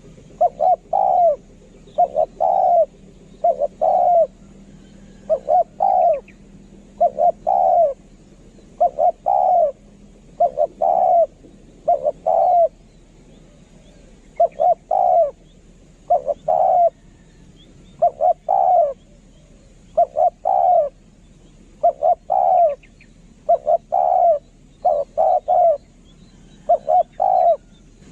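Spotted dove cooing: short phrases of two or three low coos, repeated over and over about every one to two seconds. This is the call of a decoy dove, used to lure wild doves.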